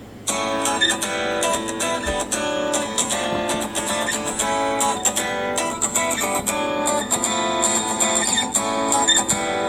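A guitar ringtone from the Samsung Galaxy S6 (Verizon) set starts abruptly about a third of a second in and plays a run of plucked guitar notes in a repeating pattern.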